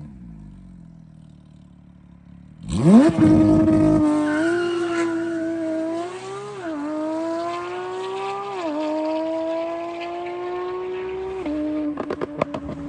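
Porsche 992 GT3's flat-six engine with a titanium aftermarket exhaust: it idles low, then is revved sharply about three seconds in and held high, with three short dips in pitch. Near the end the revs drop and the exhaust crackles with a rapid string of pops.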